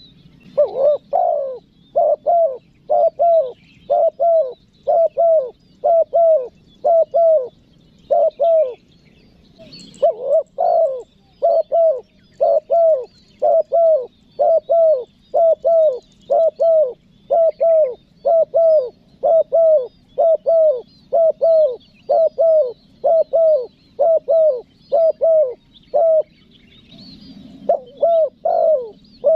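Spotted dove (tekukur) cooing in a long run of short, evenly spaced notes, about two a second, a lure call for drawing wild doves. The run breaks off briefly about ten seconds in and again near the end, with faint chirps of small birds higher up.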